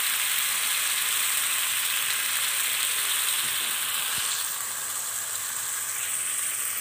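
Onion-and-spice masala frying in oil in a non-stick kadai, a steady sizzle as the masala is cooked down. The sizzle eases slightly a little past the middle.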